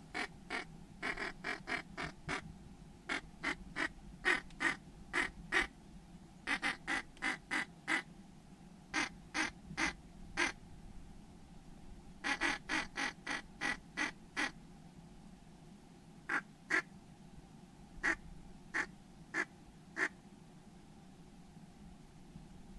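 Duck quacking in quick runs of four to eight short, evenly spaced quacks with pauses between, thinning to single quacks spaced about a second apart near the end.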